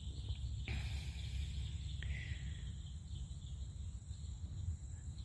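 Steady chorus of insects, such as crickets, with a constant low rumble underneath.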